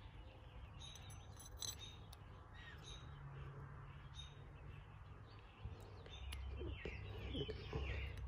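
Faint birds calling: a scatter of short calls, thicker in the second half, some of them falling in pitch, over a steady low hum.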